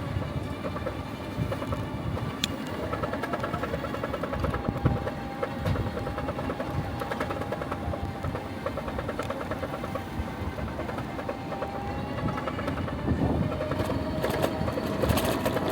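Small classic vehicle's engine running while driving, heard on board: a steady whine over fast, even engine pulses.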